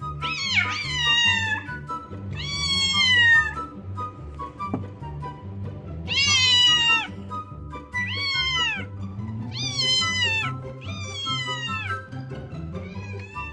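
Domestic cat meowing over and over, about seven long drawn-out meows that rise and fall in pitch, over background music.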